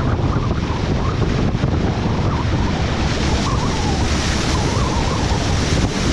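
Strong wind buffeting the microphone in a loud, steady rumble, with waves of flood water washing beneath it.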